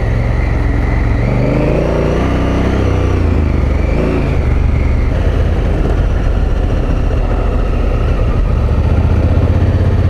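Adventure motorcycle engine running while riding along a dirt track, the revs rising and then easing off a couple of seconds in, over steady engine rumble.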